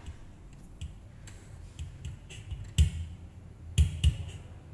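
Kick drum channel from a live multitrack recording played back on its own: a few scattered hits, each a low thump with a sharp click on top, three of them strong in the second half, the last two close together.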